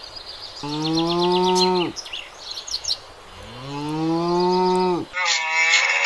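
A cow mooing twice, two long calls of a second and a half each that drop in pitch at the end, with small birds chirping during the first call. A little after five seconds the sound cuts to a different, higher-pitched animal call.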